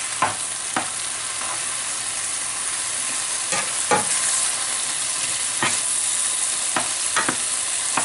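Cut-up filet mignon searing in hot olive oil in a pan on high heat, a steady sizzle, with a utensil knocking against the pan about seven times as the meat is stirred.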